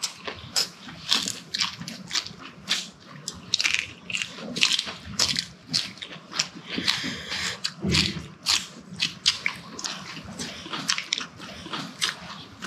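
Chewing and crunching of a mouthful of spicy pork and kimchi stir-fry, with many short, crisp crunches at an irregular pace, two or three a second.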